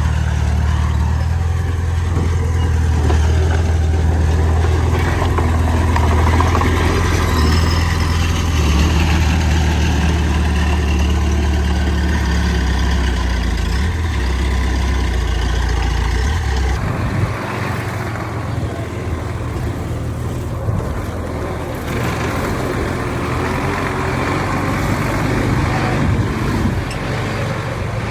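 Heavy diesel earthmoving machinery running under load, with a deep low rumble. About two-thirds of the way through the sound changes abruptly and the deep rumble drops away, leaving a lighter engine sound.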